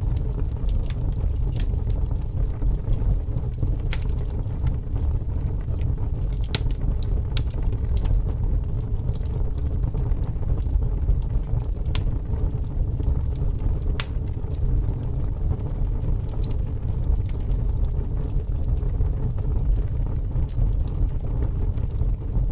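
A fire burning with a steady low rumble and irregular sharp crackles and pops scattered throughout.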